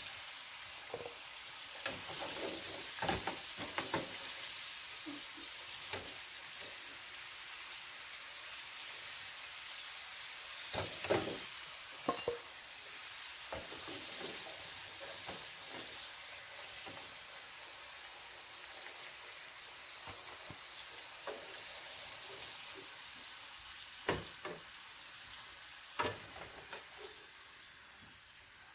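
Food deep-frying in hot oil, a steady sizzle, with a few sharp clicks and knocks of a utensil against the pan.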